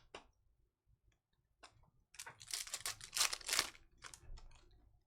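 Trading cards and foil pack wrapper being handled: a rustling, crinkling run of sounds about two to four seconds in, after a few light clicks.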